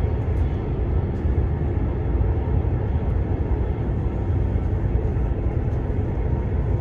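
Steady low rumble of a train, an even noise with a faint hum in it that neither rises nor fades.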